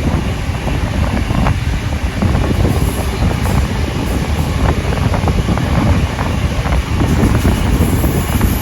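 Steam-hauled passenger train running, heard from onboard: a steady rumble of wheels on rail with scattered clicks.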